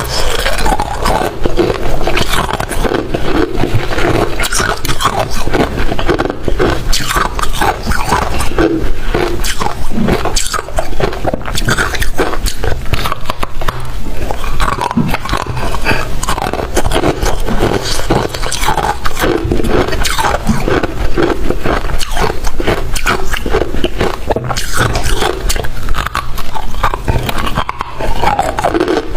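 Close-up, continuous crunching and chewing of crunchy white freezer frost ice, a dense crackle of many small cracks.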